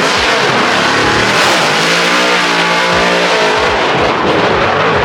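Drift cars passing close by at full throttle, loud engines revving hard with the pitch rising and falling.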